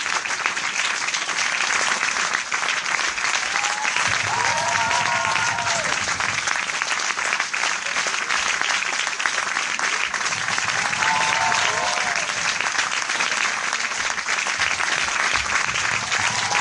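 A large crowd applauding, a dense, steady clatter of many hands clapping. Brief voices call out above it about four seconds in, again about eleven seconds in, and near the end.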